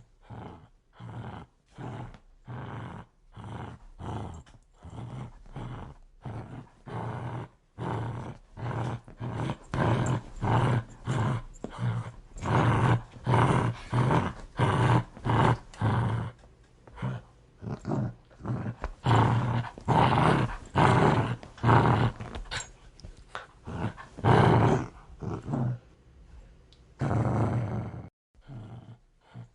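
A dog growling aggressively in a long run of short, pulsing growls, about two a second. The growls grow louder through the middle and drop off briefly near the end.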